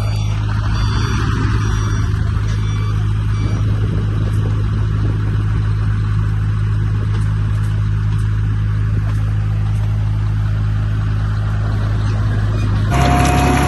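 Diesel engine of heavy earthmoving machinery running steadily with a deep hum, while a reversing beeper sounds faintly for the first few seconds. The sound changes abruptly about a second before the end.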